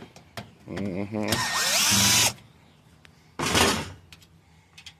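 Power drill backing screws out of a scrap furnace's sheet metal: a short spin-up with a rising whine about a second in, a longer run right after, and another brief burst past the middle.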